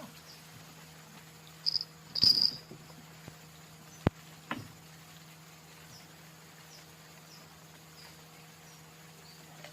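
Crickets chirping, short high chirps repeating about every half second, with two much louder chirps about two seconds in. A sharp click comes near the middle, a weaker one just after, and a steady low hum runs underneath.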